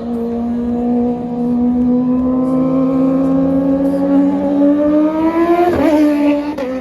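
Inline-four Kawasaki Ninja superbike with an aftermarket exhaust accelerating in one long pull, its engine note climbing steadily in pitch and getting louder. Near the end there is a quick sharp rise and fall in pitch as it flies past.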